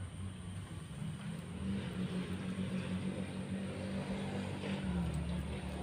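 A steady low mechanical drone, like a small engine or motor running, with its pitch dipping briefly near the end.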